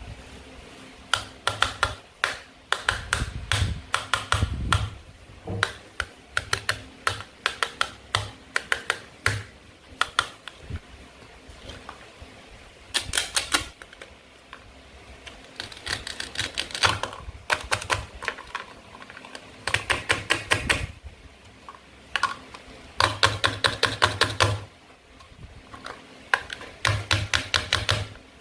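Toy fruit and vegetables being cut on a board: runs of quick, hard clicks and taps, coming in clusters with short pauses between them.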